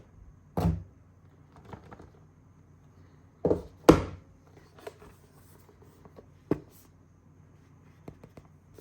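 Computer parts being handled and fitted during a PC build: a run of separate knocks and clicks, the loudest a second in and two close together around four seconds in, with a sharp knock past six seconds and small clicks near the end.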